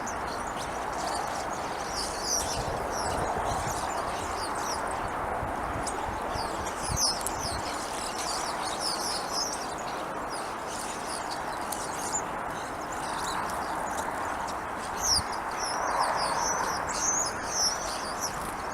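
Small wild birds chirping and twittering in quick clusters of short high notes, over a steady background rush.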